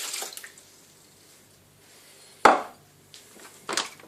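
The last of the water poured into a protein shake container, then one sharp knock of a container set down on a hard counter about two and a half seconds in, followed by a few lighter plastic clicks.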